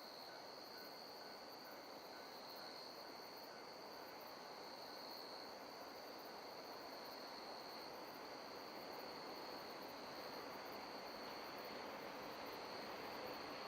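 Faint, steady high-pitched trilling of insects, with a low haze of noise that slowly grows louder toward the end.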